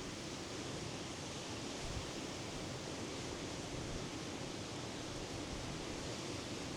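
Sea surf on the Norwegian coast making a steady, even rush, with no single wave breaking out above it.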